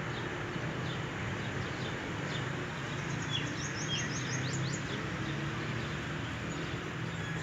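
Small birds chirping in short, high notes, with a quick run of chirps about three to five seconds in, over a steady low hum of outdoor background noise.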